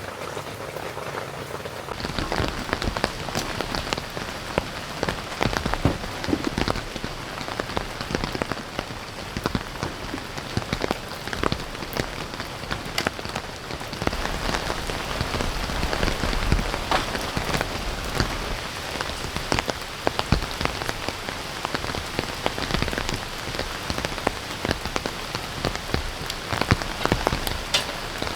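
Steady heavy rain, with many individual drops ticking sharply on a surface close by; it gets louder about two seconds in.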